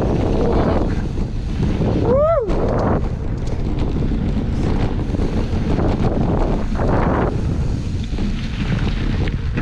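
Wind buffeting the microphone of a camera moving at speed on a mountain bike, over a steady low rumble. About two seconds in comes one short squeal that rises and then falls in pitch.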